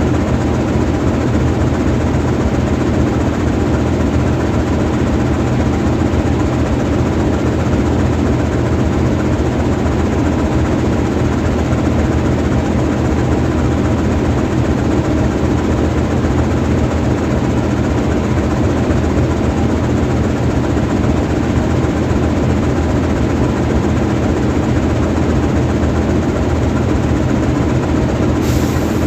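GE U20C diesel-electric locomotive's 12-cylinder diesel engine idling steadily while the locomotive stands parked, with a brief high hiss near the end.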